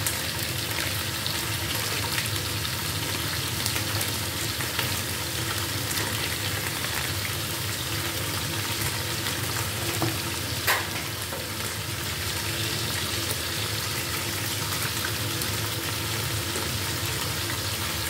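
Chicken pieces frying in oil in a pot, a steady sizzle. There are a couple of light knocks about ten seconds in.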